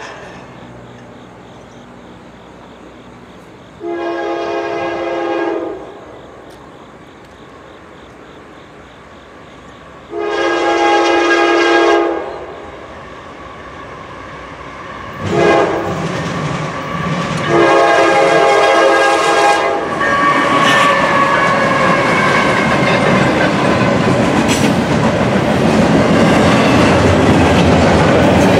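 Norfolk Southern GE ES44AC diesel locomotive's air horn sounding the grade-crossing signal as the train approaches: two long blasts, a short one, then a long one. Then the locomotive and the double-stack intermodal container cars pass close by, with a loud steady rumble and the clatter of wheels on rail.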